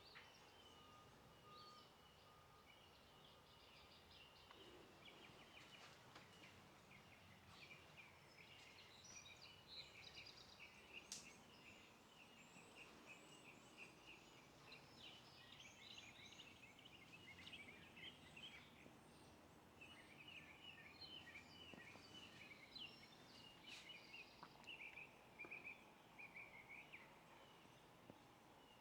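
Faint chirping and twittering of small birds: many short high calls, coming thickest through the middle and again near the end.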